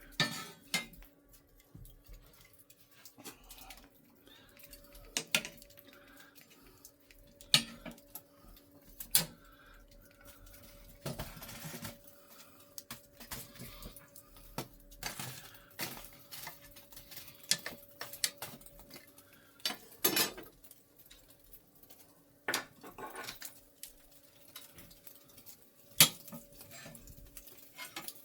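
Cooking utensils and dishes clinking and knocking at irregular intervals while meat is prepared for grilling, with a few sharper clanks.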